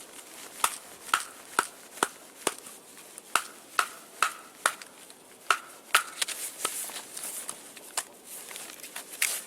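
Wooden baton striking the spine of a knife to split a small log lengthwise: a steady series of sharp knocks about two a second, some with a short metallic ring.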